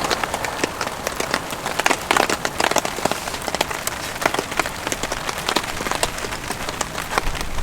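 Rain falling steadily, with many irregular drops tapping sharply on a nearby surface over a continuous hiss.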